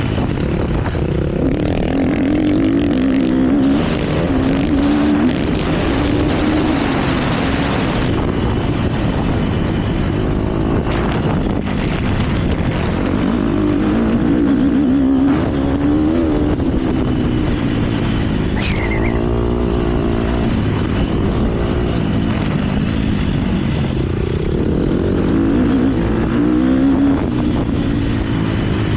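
KTM motocross bike's engine ridden hard, its revs rising and falling over and over as the rider works the throttle and gears, with a rush of wind-like noise about six to eight seconds in.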